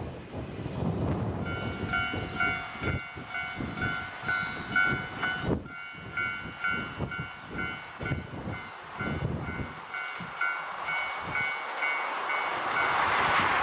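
Wind buffets the microphone with low thumps while a ringing tone pulses steadily from about a second and a half in. Near the end a rising rush builds as a train approaches.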